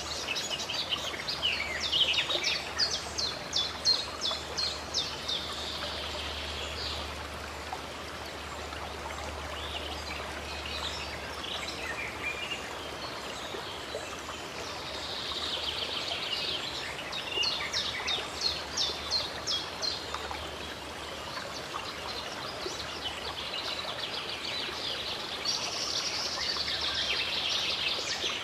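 Running water of a stream or small waterfall, with birds singing over it: bouts of rapid, repeated high notes near the start, in the middle and again near the end.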